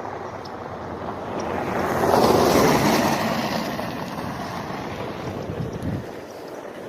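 A vehicle driving past on the icy road: a rushing tyre and road noise that swells to its loudest about two and a half seconds in, then fades away by near the end.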